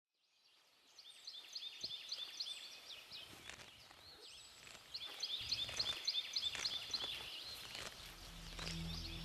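Outdoor wildlife chorus fading in: rapid, high-pitched chirping calls repeating several times a second, with a few sharp clicks. Low, soft music begins near the end.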